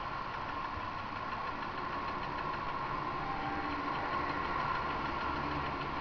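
Honda CG Titan 150 motorcycle's single-cylinder engine running steadily under a constant hiss.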